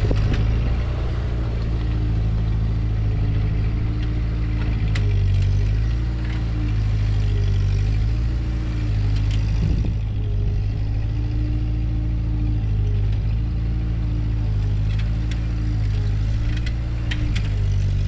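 Ford 2N/9N tractor's four-cylinder flathead engine running steadily at a low, even speed, its pitch wavering a little, with a few sharp clicks over it.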